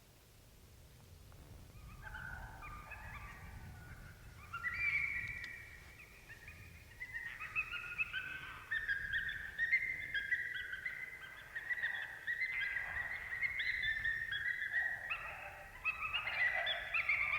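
A chorus of coyotes yipping and howling, many high wavering calls overlapping, starting about a second and a half in and growing louder in waves.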